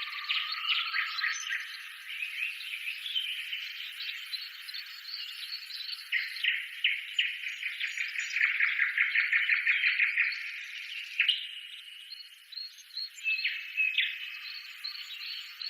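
Small birds chirping and twittering, with a fast trill about eight seconds in.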